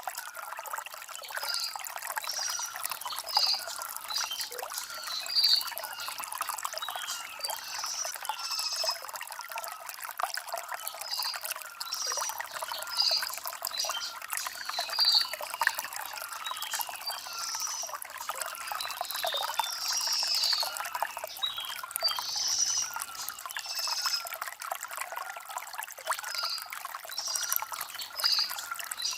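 Shallow stream trickling and splashing over stones, a steady light flow with no deep rumble, with small birds chirping in short high calls every second or two.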